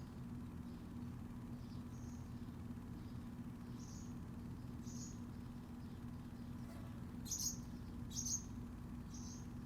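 Small birds chirping in short, high, scattered calls, the two loudest close together near the end, over a steady low hum.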